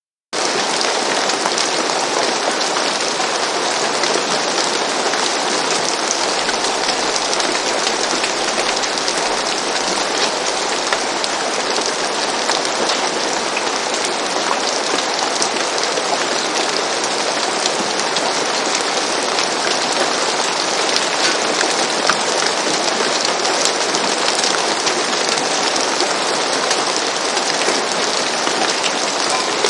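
Steady rain falling on a roof: a dense, even hiss with scattered ticks of single drops. It cuts in abruptly from silence right at the start.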